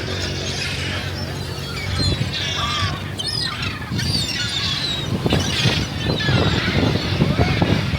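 A flock of gulls calling, many short cries overlapping throughout.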